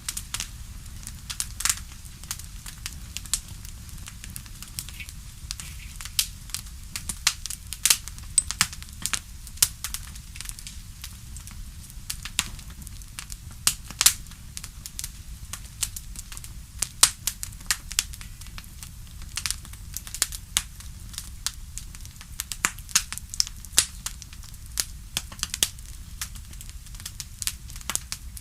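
Wood fire crackling, with irregular sharp pops and snaps several times a second over a low steady rumble.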